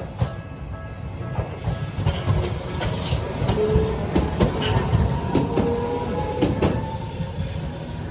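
A Tokyu 300 series car passing over a level crossing, its wheels clacking over the rail joints and crossing. A ringing whine that wavers in pitch sounds through the middle of the pass and stops about a second before the end.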